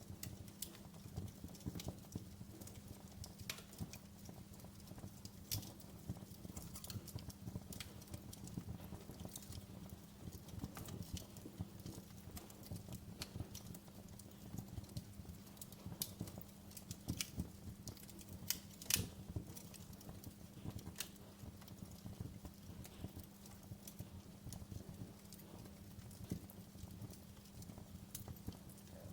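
Wood fire crackling, with irregular sharp pops and snaps over a low steady rumble of the burning logs. One louder pop comes about two-thirds of the way through.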